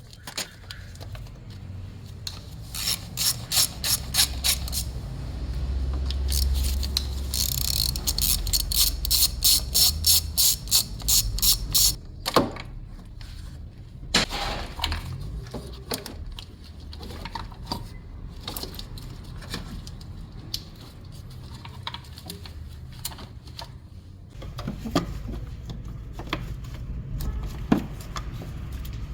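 Ratchet wrench clicking in quick runs of even clicks, then scattered single clinks and knocks of metal tools.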